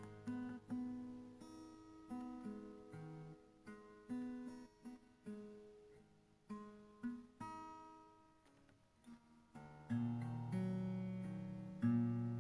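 Background music on acoustic guitar: single plucked notes that ring and fade, then fuller, louder chords from about ten seconds in.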